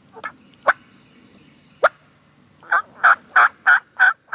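Turkey calling: a few single sharp clucks, then, from a little over halfway in, a steady series of yelps at about three a second.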